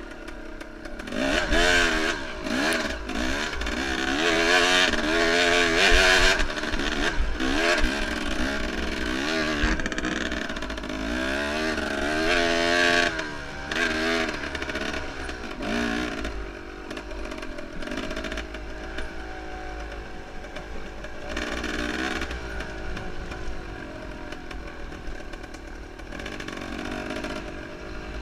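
Enduro motorcycle engine revving hard, its pitch rising and falling again and again as the throttle is worked, with rattling and knocks from the bike. It quietens about halfway through.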